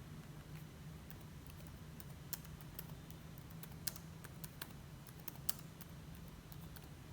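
Typing on a computer keyboard: quiet, irregular key clicks, a couple of them sharper, over a steady low hum.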